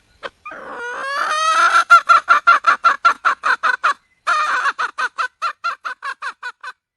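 Wild hen (female red junglefowl) calling for a mate. It starts with a rising, drawn-out note that runs into a fast series of clucks, about five a second. The series breaks off briefly about four seconds in, then resumes and fades away.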